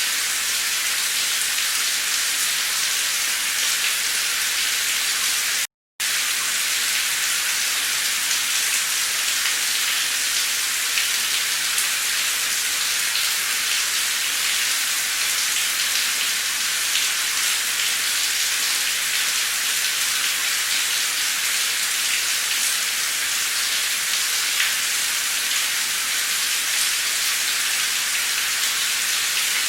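Heavy torrential rain pouring down in a steady, dense hiss. The sound cuts out completely for a split second about six seconds in.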